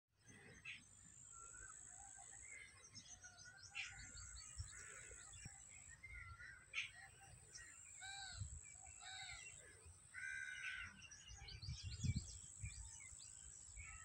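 Several birds chirping and calling over one another in short, repeated notes, faint, over a low rumble of wind on the microphone.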